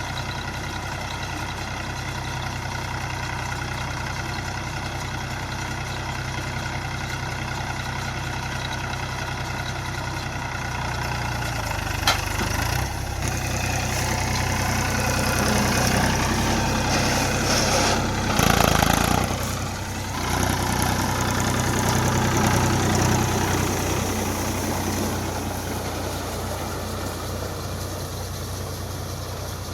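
Tractor diesel engine running steadily, growing louder and rougher for several seconds in the middle before settling back, with one sharp click about twelve seconds in.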